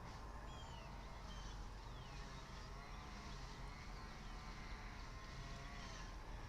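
Faint outdoor ambience: scattered short songbird chirps over a steady low rumble.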